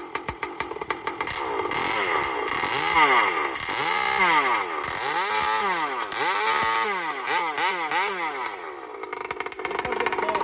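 Husqvarna 543XP chainsaw with an expansion-chamber pipe, at first idling with a rapid even popping. It is then revved up and down several times in rising and falling sweeps, and drops back to idle near the end.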